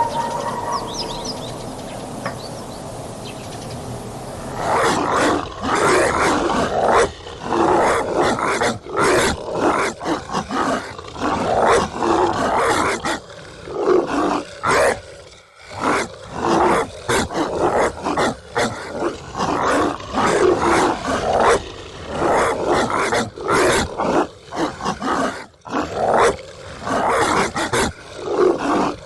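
Dogs barking and snarling aggressively in rapid, overlapping bursts, starting about four seconds in after a few seconds of quieter background noise.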